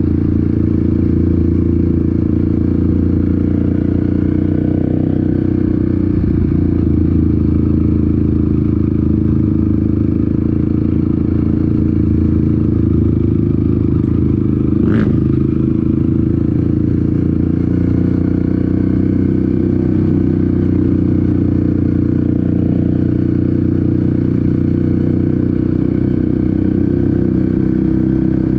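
Dirt bike engine running loud at a fairly even speed on a trail ride, with rattling and scraping mixed in. One sharp knock about halfway through.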